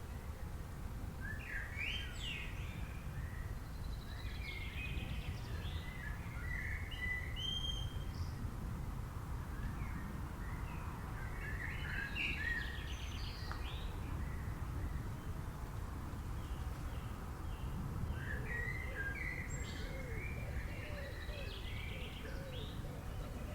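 Wild birds chirping and singing in several bouts of quick, high notes, over a steady low background rumble.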